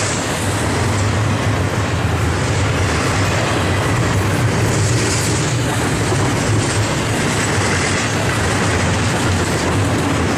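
Double-stack intermodal freight train's container well cars rolling past close by: steel wheels on rail making a loud, steady rumble with a low hum underneath, unchanging throughout.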